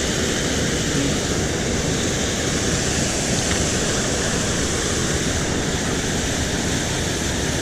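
Water rushing steadily over a small spillway, an even, unbroken rush.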